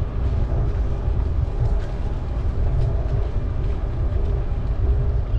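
Steady low rumble of wind and rolling noise on the microphone of a camera riding along on a moving bicycle.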